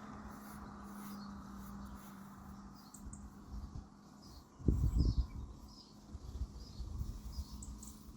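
Quiet outdoor background: faint, repeated short high chirps over a steady low hum, with a short low rumble about halfway through.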